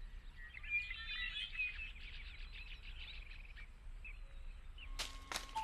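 Birds chirping and twittering in a dense run of short calls, then sparser calls, over a low steady background rumble; near the end come two short, sharp noise bursts, the loudest sounds here.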